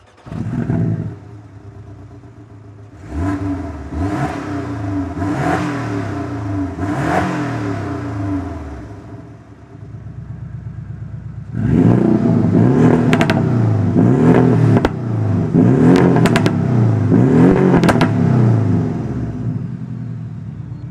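Porsche 718 Boxster S / Cayman S turbocharged flat-four revved through a TECHART sport exhaust with valve. Four quick throttle blips rise and fall over the idle, then a louder set of four follows, with sharp crackles between them.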